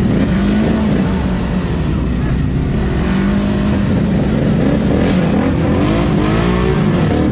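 ATV engines running and revving, their pitch rising and falling in the second half.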